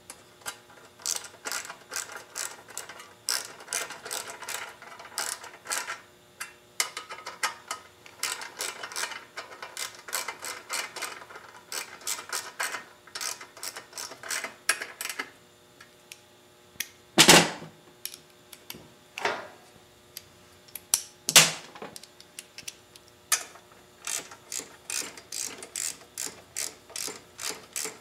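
Socket ratchet clicking in quick runs as bolts are tightened down, with two louder knocks a few seconds apart past the middle.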